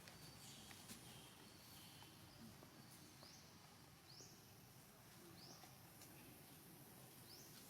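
Faint outdoor background with a short, high, rising chirp from a small animal, repeating about once a second from about three seconds in.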